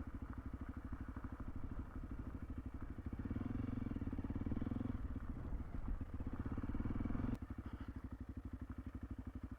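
Honda CRF300L single-cylinder four-stroke engine running at low revs, its firing pulses even and close together as the bike creeps along slowly. A sharp click about seven seconds in, after which the engine runs quieter.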